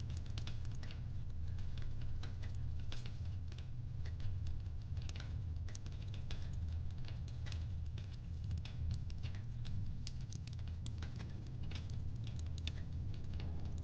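Fireplace crackling: irregular sharp pops and snaps, several a second, over a steady low hum.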